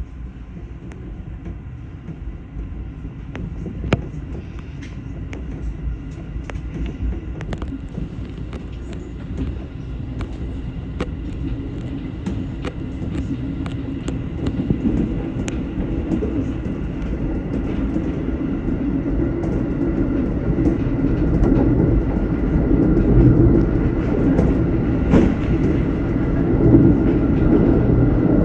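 211-series electric train running on the line, a steady low rumble of wheels on rail with scattered sharp clicks over rail joints, growing steadily louder through the stretch.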